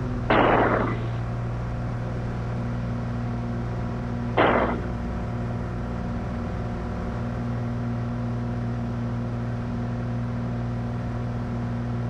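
Steady drone of a Cessna 182's engine and propeller at climb power, heard through the cockpit intercom's recording cable. Two short bursts of noise cut in over it, the first about half a second in and the second about four and a half seconds in.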